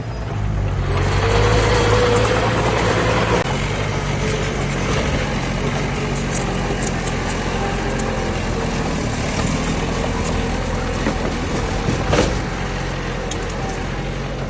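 Diesel engine of heavy earthmoving machinery running steadily, with a broad rushing noise and a faint rising whine swelling about a second in. A single sharp knock near the end.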